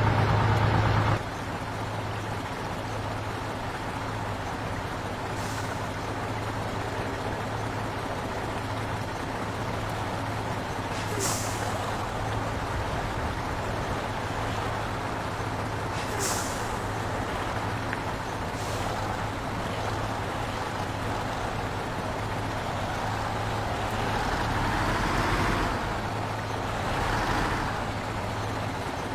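Heavy truck running with a steady low engine hum, broken by short air-brake hisses four times, then swelling louder twice near the end.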